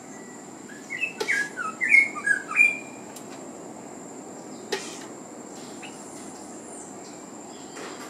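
A small brown songbird giving a quick run of short, sharp chirps about a second in, with a few sharp taps against a car's window glass.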